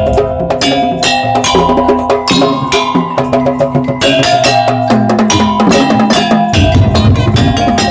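Madurese daul (tong-tong) percussion ensemble playing: fast, dense strikes on wooden slit drums and drums, with a held melody over the beat.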